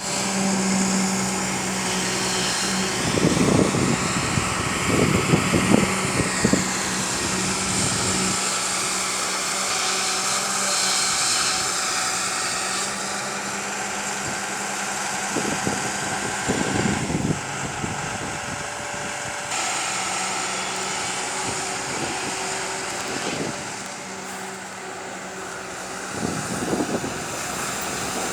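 Diesel engine of a hydraulic excavator running steadily while it loads pond soil into a truck, with several louder rough spells a second or two long as loads are dug and dumped.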